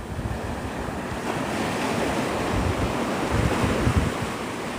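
Gulf of Mexico surf washing onto the beach in a steady hiss, with wind gusting against the microphone in uneven low rumbles.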